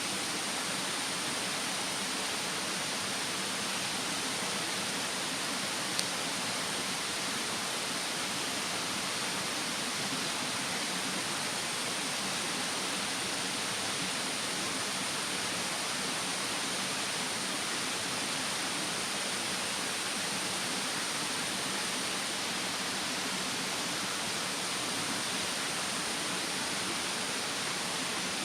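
Steady rushing of a mountain stream with a campfire burning, and a single sharp crackle from the fire about six seconds in.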